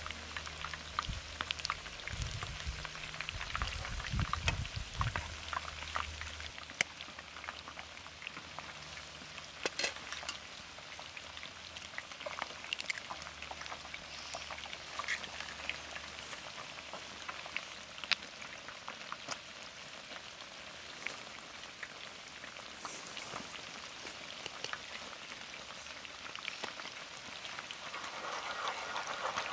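Food frying: a steady sizzle with many scattered crackles and pops, over a low rumble for the first six seconds or so.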